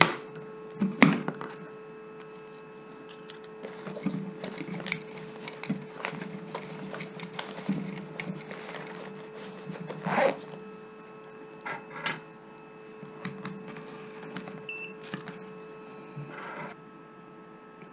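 Scattered clicks, knocks and rustling of a circuit board and tools being handled on a workbench, over a steady hum.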